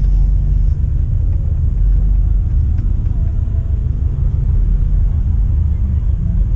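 Car's steady low rumble of engine and road noise, as heard while riding along.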